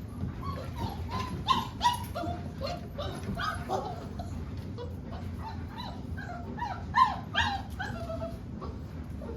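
Boerboel puppies whining and yipping in short, high, rising cries, with a few sharper yelps, eager for attention or food.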